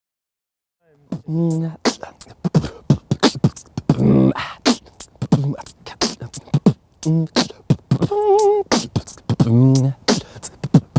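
Vocal percussion: a person's voice making rapid clicking, popping and hissing mouth sounds mixed with short voiced tones that bend in pitch, starting about a second in after silence.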